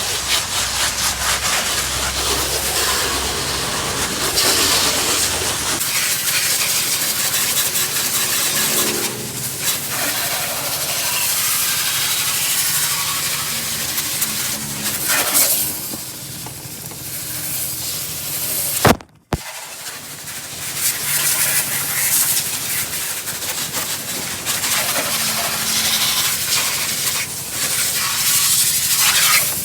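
Pressure washer spraying a muddy car wheel: a steady, loud hiss of the water jet over the hum of the washer's pump, cut off once for a moment a little past two-thirds through before resuming.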